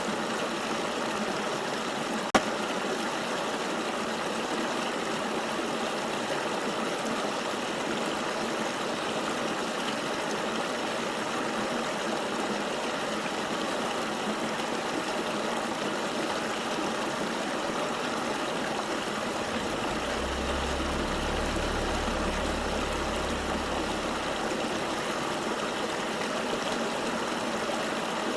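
Steady rushing of a flowing forest river. A single sharp click comes about two seconds in, and a deep low rumble rises under the water for about five seconds near the end.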